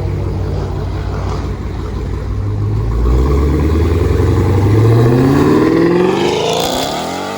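A car accelerating hard past and away, its engine note climbing steadily in pitch, loudest about two thirds of the way through, then dropping in pitch and fading as it passes.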